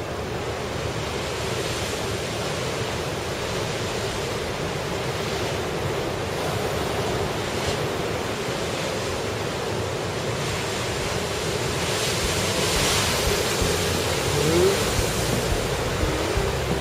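Heavy typhoon surf breaking against the coast in strong wind, a steady rushing that swells to a loud wave crash about three-quarters of the way through.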